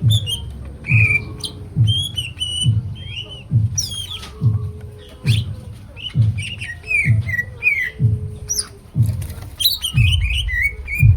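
Cucak ijo (green leafbird) singing a rapid, varied song of short sliding chirps and whistles. Under it a low thump repeats steadily about every two-thirds of a second.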